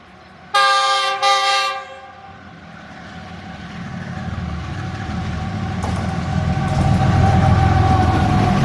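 Pakistan Railways GEU-40 diesel-electric locomotive sounds its multi-tone horn in two short blasts, then the train approaches, the engine and the wheels on the rails growing steadily louder until it is close.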